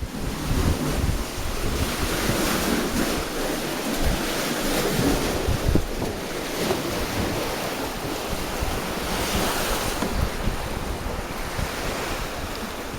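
Wind buffeting the microphone: a steady rough rush with uneven low rumbling gusts.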